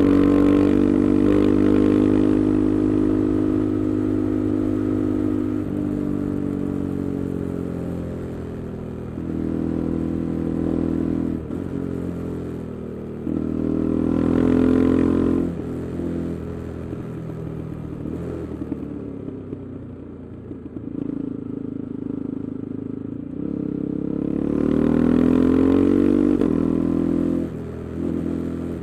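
KTM 390 Adventure's single-cylinder engine running through an Arrow aftermarket exhaust with the resonator removed, under way. It pulls up through the revs several times with sudden drops in pitch between pulls, and settles to a quieter, lower note about two thirds of the way through before pulling hard again.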